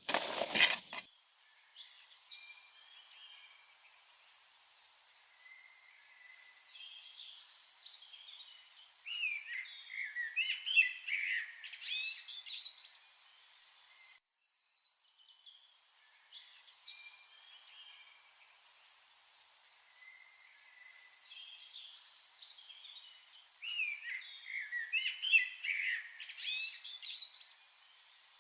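Birds chirping and calling, with a cluster of louder, quick calls twice; the same stretch of birdsong repeats after about fourteen seconds. A few sharp knocks sound right at the start.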